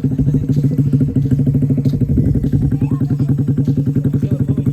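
Motorcycle engine idling with a rapid, even pulsing beat.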